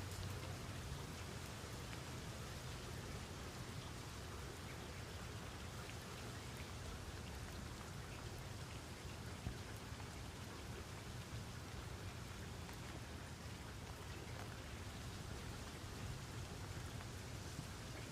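Steady rain falling, an even hiss with faint scattered drop ticks and one slightly louder tick about halfway through.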